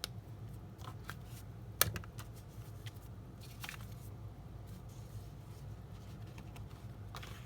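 Quiet handling of a paper card and craft supplies on a work surface: a few scattered soft clicks and taps, with one sharper click just under two seconds in, over a steady low hum.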